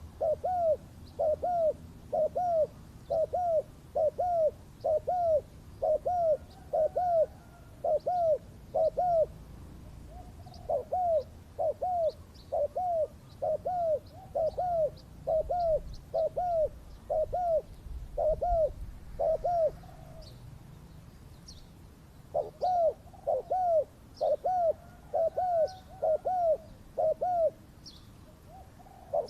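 Spotted dove cooing in long runs of quick, evenly repeated arched notes, about two a second, with a pause of a couple of seconds in the middle. Faint high chirps sound alongside.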